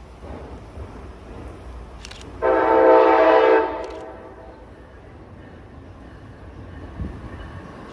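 Train horn sounding one blast of a little over a second, a chord of several notes, over a low steady rumble.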